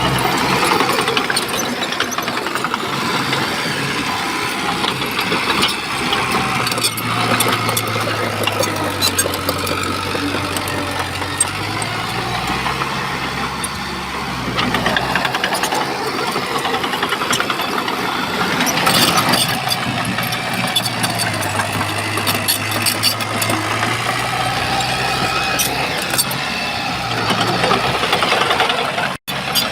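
Shantui bulldozer's diesel engine working under load, its note rising and falling several times, with clanking and rattling from the tracks and pushed stone. The sound breaks off for an instant near the end.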